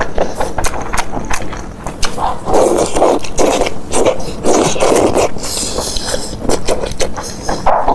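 Close-miked eating sounds: wet chewing and smacking with many short clicks, likely of wide noodles in spicy sesame sauce. Denser, louder mouthfuls come from about two and a half to five and a half seconds in.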